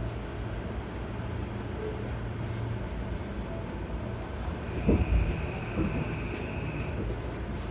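Seibu 6000 series electric commuter train heard from inside the car while running: a steady low rumble, with heavy thuds about five seconds in as the wheels go over rail joints or points. A steady high squeal rises from about four seconds in and stops near the end.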